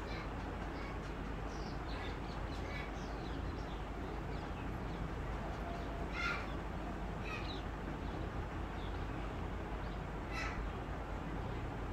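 Birds calling, with many short high calls and two louder ones about six and ten seconds in, over a steady background noise.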